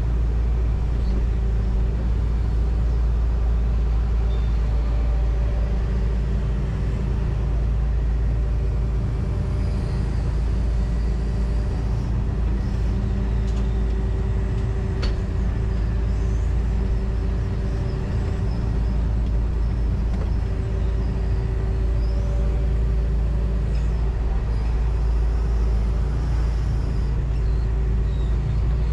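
John Deere 245G excavator's diesel engine running steadily under load, heard from inside the operator's cab, with faint higher tones coming and going over a deep, even rumble.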